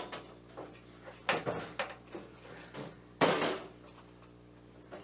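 A few knocks and clunks of the metal snow machine and its handle being handled, the loudest about three seconds in.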